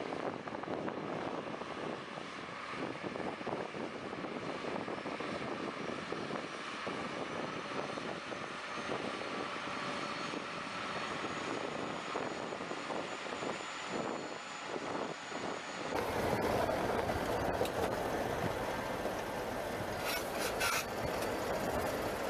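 Steady engine noise of a large vehicle, a continuous drone with a faint high whine. About 16 seconds in it cuts abruptly to a louder, deeper engine sound.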